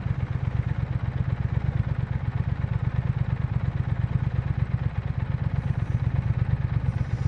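A 2020 Triumph Speed Twin 1200's parallel-twin engine runs at a steady, even pulse with no change in revs.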